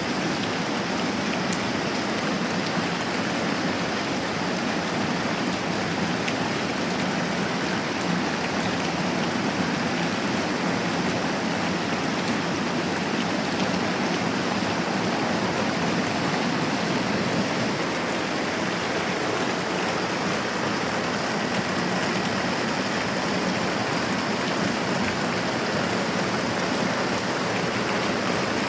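Moderate rain falling steadily, an even hiss of water without breaks.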